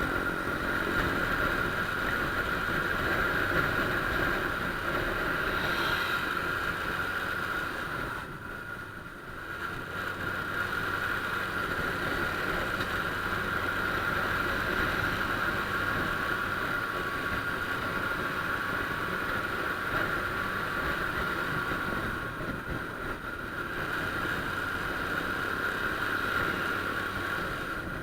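Honda Click scooter's single-cylinder engine running while riding, a steady hum with a constant whine and rushing noise. Twice the sound drops briefly, as the throttle eases off, then picks up again.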